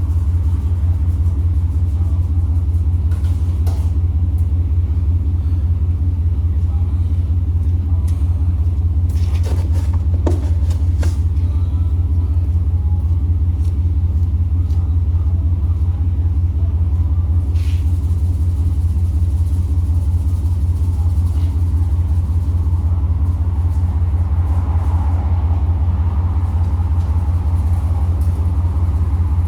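Steady low vehicle rumble at an even level throughout, with a few faint clicks around the middle.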